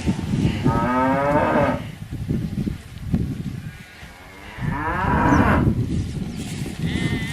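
A cow mooing twice in long, drawn-out calls, each lasting over a second.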